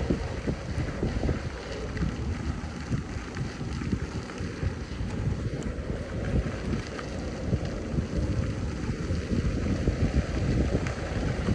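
Wind buffeting the microphone of a camera riding along on an e-bike: an uneven, gusty low rumble.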